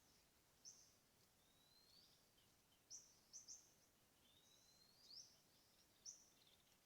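Faint bird calls: short, sharp high chirps and thin rising whistles, repeated several times over a quiet background.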